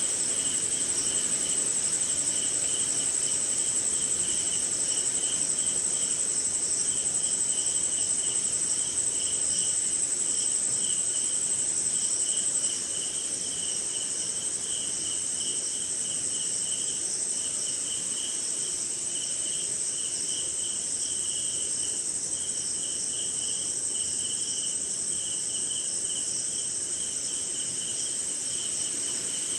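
Night chorus of crickets and other insects: a steady high-pitched trill with a lower chirping that comes in pulsing runs over it. The whole chorus gets slightly quieter about a third of the way in.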